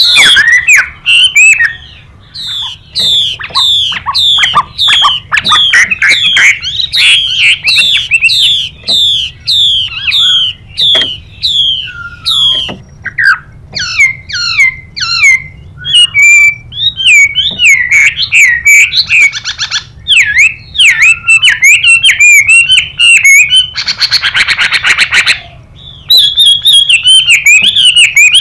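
Chinese hwamei singing: fast runs of loud, repeated sweeping whistled notes. A harsh, hissing rasp, the female hwamei's 'xùy' call, cuts in briefly about three-quarters of the way through.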